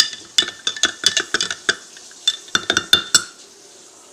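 A metal spoon scraping and clinking inside a glass jar of Alfredo sauce, getting the last of it out: a quick, uneven run of taps with a slight ring, stopping about three seconds in.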